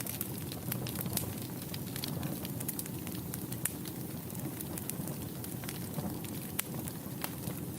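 Wood fire burning in a fireplace: a steady low rush of flame with many sharp, irregular crackles and pops throughout.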